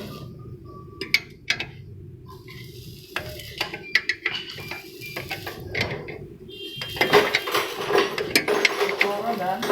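Metal clinks and clicks of hand tools against metal parts, scattered at first, then a denser run of clattering and scraping from about seven seconds in.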